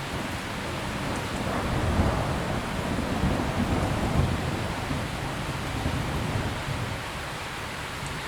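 Steady rain falling, with a low rumble of thunder that swells soon after the start, peaks around two to four seconds in, and dies away by about seven seconds.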